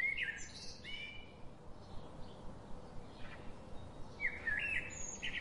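A bird chirping, faint: clusters of short, high whistled calls, one group in the first second and another near the end, over a faint steady hum.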